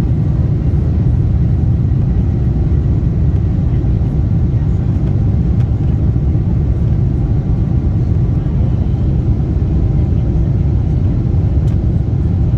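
Boeing 747-8 airliner giving a steady low rumble of engine and rolling noise that stays even throughout, with faint steady whining tones above it.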